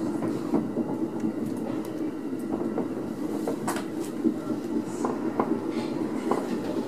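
Electric multiple-unit train running slowly, heard from inside the driver's cab: a steady rumble with irregularly spaced clicks of the wheels over rail joints.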